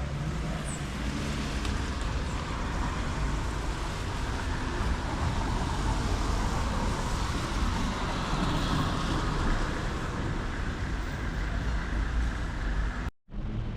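City street traffic: a steady low rumble of motor vehicles with a hiss over it. The sound cuts out for an instant near the end.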